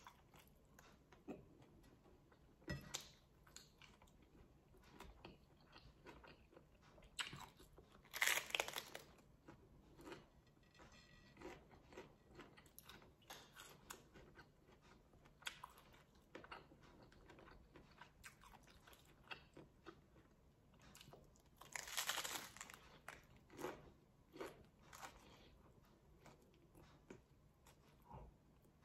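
Faint biting and chewing of a lettuce-wrapped taco: crisp lettuce crunching and wet mouth sounds. The two loudest crunching bites come about eight seconds in and about twenty-two seconds in.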